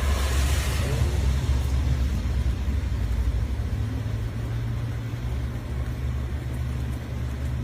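Air conditioner outdoor unit running, a steady low hum with a light hiss over it.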